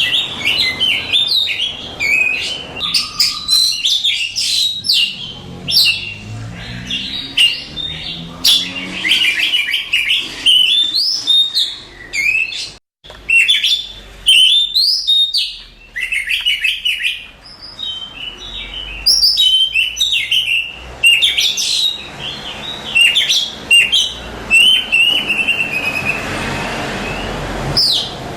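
Oriental magpie-robin (kacer) singing a long, varied song of loud whistled phrases, rapid chirps and trills, broken by a brief sudden gap about halfway through.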